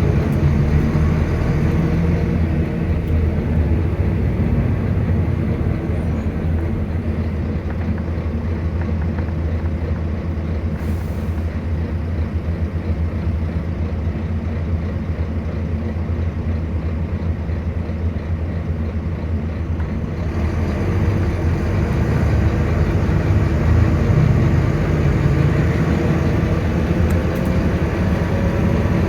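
Volvo B9TL bus's six-cylinder diesel engine running steadily. From about twenty seconds in it grows louder and its pitch rises toward the end.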